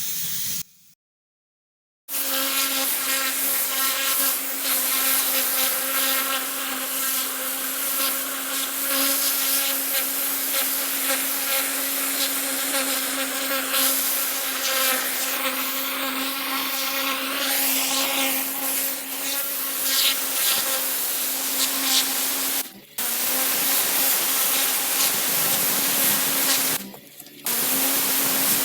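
Pressure washer running with a steady hum while its water jet sprays with a hiss, rinsing down a house. The sound drops out briefly about a second in and twice near the end.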